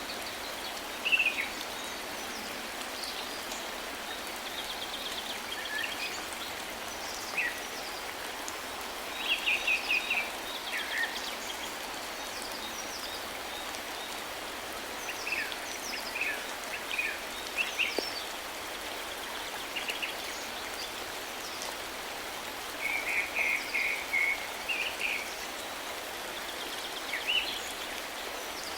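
A starling calling on and off: scattered short chirps, quick slurred whistles and a few rapid rattling trills, over a steady hiss.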